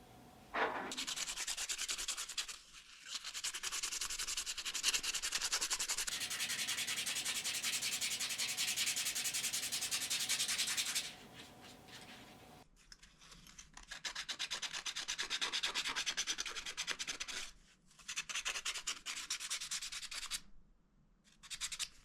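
Wood being sanded: an abrasive hiss in several bouts with short pauses between them.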